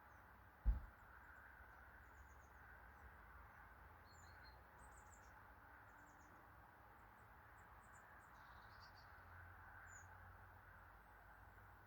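Faint, scattered short high-pitched bird chirps and twitters over a steady background hiss, with one low thump under a second in.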